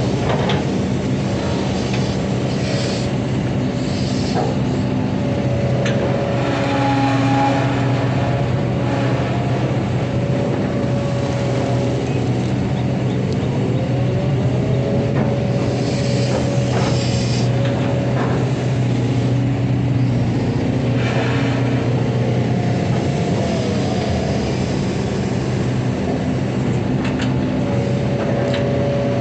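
Long-arm hydraulic excavator at work: its diesel engine runs steadily while the hydraulic pump whine shifts up and down in pitch as the boom and bucket move, with occasional knocks and squeals.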